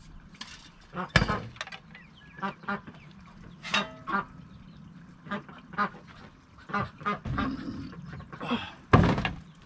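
Domestic ducks quacking repeatedly in short calls, with a couple of louder knocks about a second in and near the end.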